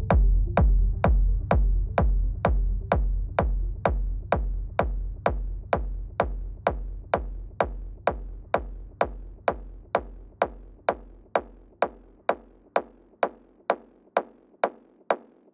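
Techno track's kick drum pounding a steady four-on-the-floor beat, a little over two beats a second, fading out steadily; a held synth tone underneath drops away in the first few seconds, leaving the bare kick.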